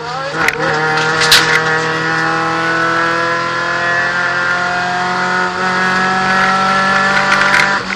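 VW Golf II 16V's four-cylinder engine under hard acceleration, heard from inside the cabin: the note climbs after a gear change at the start and keeps rising slowly as the car gathers speed, then drops near the end. A couple of sharp knocks sound in the first second and a half.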